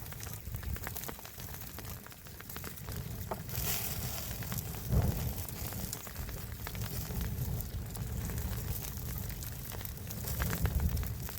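Cooking fire crackling, with scattered pops over a low steady rumble and one louder thump about five seconds in.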